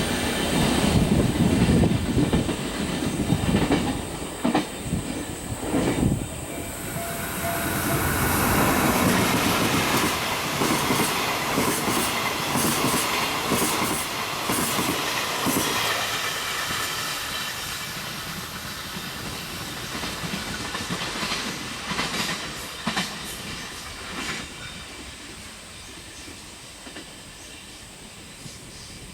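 Container freight train behind an EF64 electric locomotive passing on the track: wheels clacking over rail joints, loudest in the first few seconds, then a hiss and clatter of the wagons that fades steadily as the train draws away.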